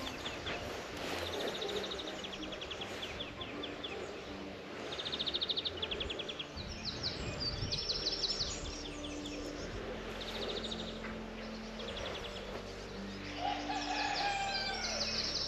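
Several songbirds singing over quiet countryside background noise: repeated fast trills and short chirps, the loudest trill about five seconds in.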